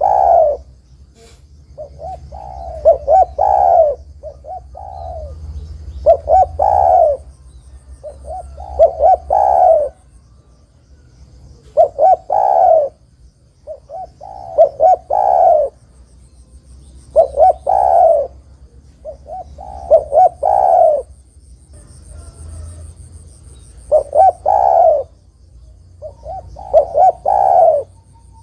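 Spotted dove (tekukur) cooing. Its song phrase, a few short coos ending in a longer, louder coo, repeats about every two to three seconds.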